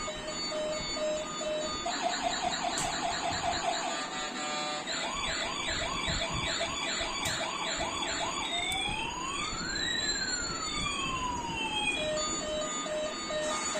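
Battery-operated toy police car playing its electronic siren sounds: a pulsed beeping tone, then about two seconds in a fast repeating yelp of a few chirps a second, then a slow wail rising and falling, and the beeping tone again near the end.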